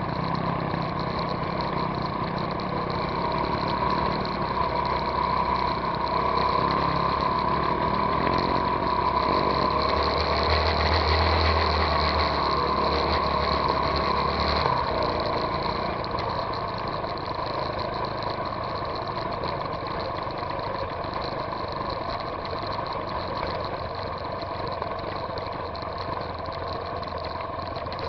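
Trail motorcycle engine running steadily as the bike rides along a dirt track, heard close up from a camera mounted on the bike. A strong low rumble drops away about halfway through.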